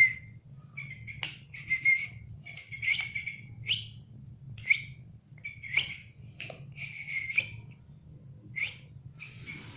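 Sooty-headed bulbul (kutilang) calling: a series of about a dozen short whistled chirps spaced irregularly, several ending in a quick upward flick.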